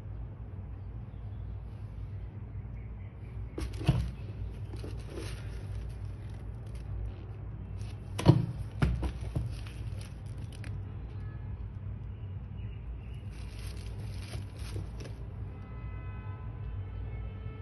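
Sneaker box and its wrapping being handled: scattered rustling with two sharper knocks, about four and eight seconds in, over a steady low hum.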